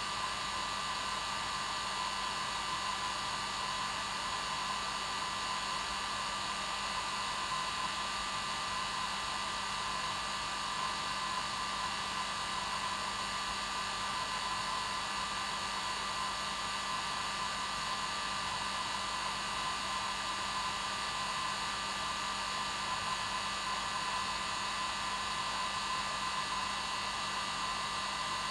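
Hair dryer running steadily on its normal setting, with a constant airy hiss and a fixed motor whine.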